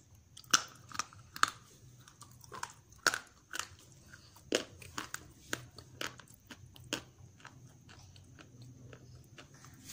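Dry grey clay chunks being bitten and chewed close to the microphone: a string of sharp, brittle crunches, several a second at first, thinning out after about seven seconds.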